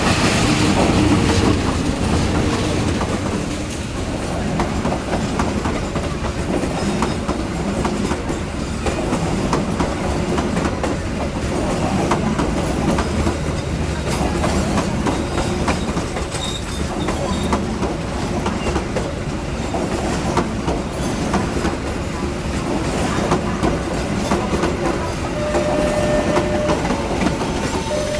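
Passenger train rolling into a station, its carriage wheels clicking steadily over the rail joints. A brief high-pitched tone sounds near the end.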